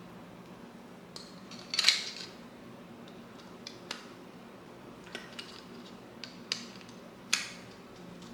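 Small metal objects being handled: a series of short clicks and clinks, the loudest about two seconds in and again near the end, over a faint steady hum.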